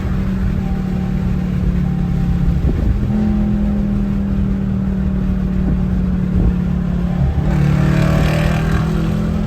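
Straight-piped Dodge Charger R/T V8 exhaust droning steadily while driving, its pitch stepping a couple of times as speed changes, with a hissing rush for a second or two near the end.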